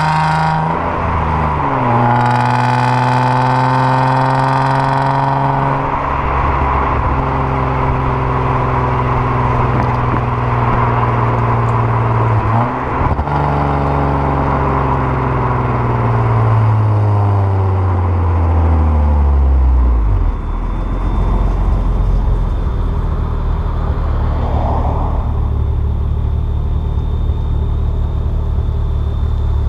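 2002 Nissan Maxima SE's 3.5-litre VQ35DE V6, fitted with equal-length headers and a straight pipe in place of the resonator, driving under a raspy exhaust note. The engine pitch drops about a second in, holds steady, and breaks briefly near the middle with a gear change. It then falls steadily as the car slows and settles into a low, steady drone for the last third.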